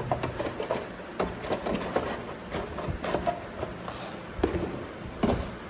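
Cardboard packaging and accessories being handled: irregular rustles, light knocks and clicks as items go back into the box.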